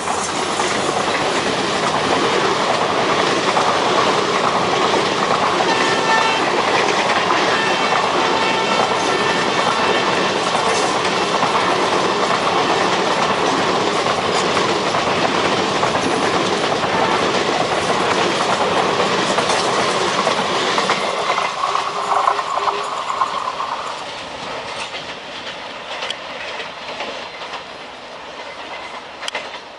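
A passenger express train running past at speed close by, its wheels clattering over the rail joints in a dense, loud rush. Faint steady tones ride over it in the middle stretch, and about three-quarters of the way through the noise dies away as the train moves off.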